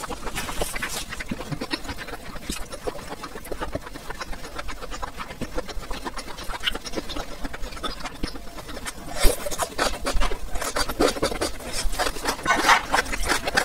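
Close-miked chewing of spicy beef tripe and green peppers: a rapid, irregular run of wet crunches and mouth clicks. It grows louder and busier in the last few seconds.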